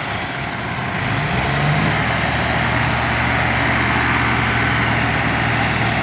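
Tractor diesel engine picking up revs about a second in, then running steadily at the higher speed.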